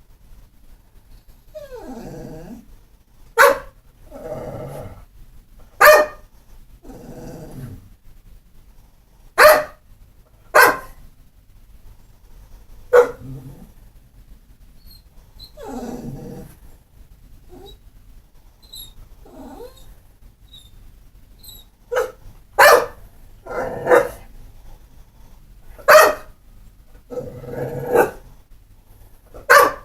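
A pit bull barking in single sharp barks, about ten in all, spaced irregularly with a lull in the middle. Between the barks come quieter drawn-out whines and grumbles.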